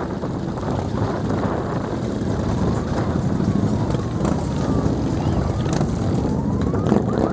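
Many motorcycle engines running together in a dense, steady rumble, with a faint wailing siren in the middle and latter part.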